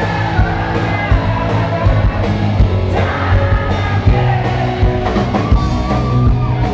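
Live band playing a rock song: a singer over drum kit and guitar, with a steady driving beat.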